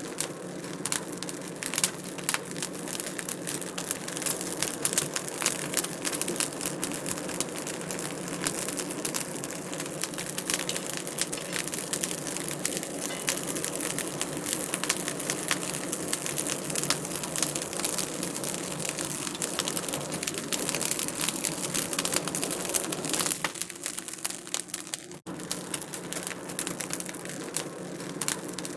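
Wood fire crackling in a fireplace: a dense, steady run of sharp pops and snaps over a soft hiss, with a brief lull about twenty-four seconds in.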